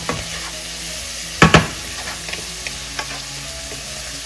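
Browned pork belly with garlic, onions and ginger sizzling in a pan while being stirred, with two loud knocks close together about a second and a half in and a few lighter clicks.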